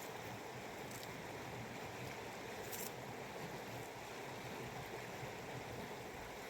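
Mountain river flowing steadily, a continuous rush of water.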